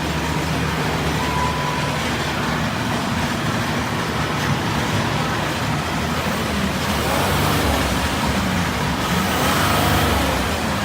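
Ford F-150's 3.0-litre Power Stroke V6 turbo-diesel idling steadily.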